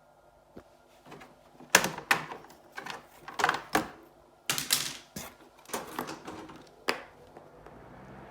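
Sharp plastic clicks and clattering knocks, about a dozen over five seconds, from a Mitsubishi 25 cm ventilation fan and its filter cover being handled. Near the end the fan motor starts with a low steady hum and an air hiss.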